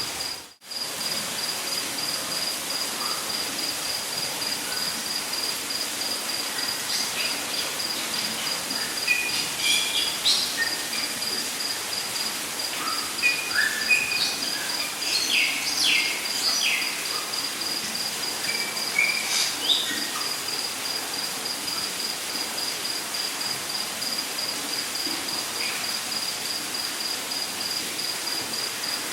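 Rainforest ambience: an insect's high, evenly pulsing chirp goes on over a constant hiss, while several birds call in short chirps and rising notes between about 7 and 20 seconds in. The sound drops out briefly about half a second in.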